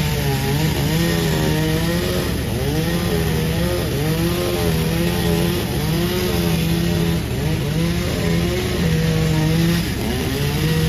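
Panda36 two-stroke chainsaw running hard while sawing jackfruit wood, its engine note wavering with frequent short dips in pitch as it works under load.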